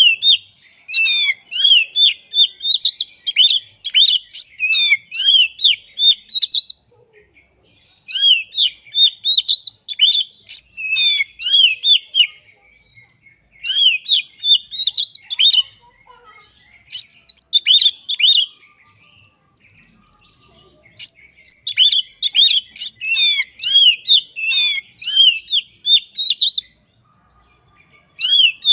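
Oriental magpie-robin singing: fast runs of varied chirps and whistled sweeps, in phrases of two to six seconds with short pauses between them.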